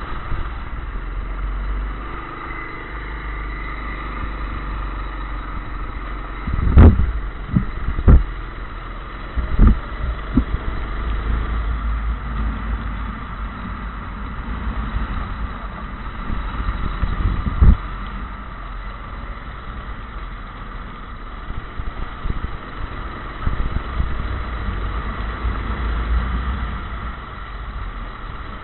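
Kart engine running steadily at speed, with several loud low thumps, the loudest about seven and eight seconds in.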